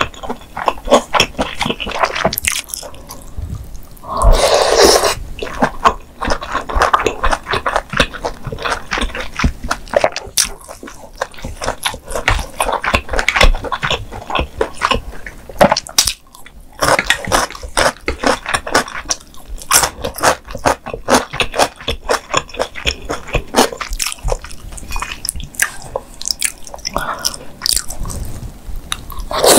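Close-miked chewing of spicy stir-fried mala xiang guo, a dense run of wet mouth clicks and smacks, with one louder, longer noise lasting about a second around four seconds in.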